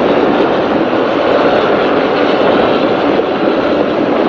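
Offshore racing powerboat running at speed: a loud, steady rush of engine, wind and water noise with no distinct beat or tone.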